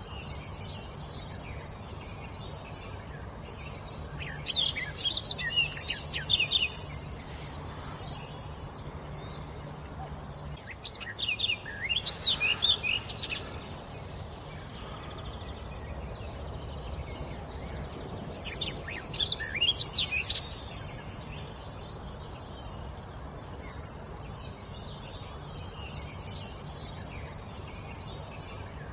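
A songbird singing three short phrases of quick, high notes, several seconds apart, over a steady background hiss and low hum.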